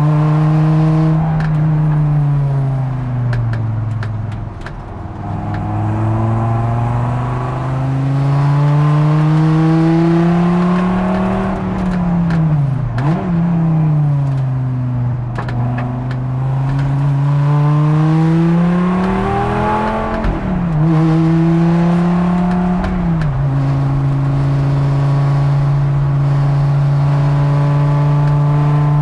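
Dodge Viper ACR-X's V10 engine heard from inside the cockpit at racing speed. Its pitch falls and climbs as the car slows and accelerates, drops sharply and recovers twice midway, then holds a steady pitch near the end.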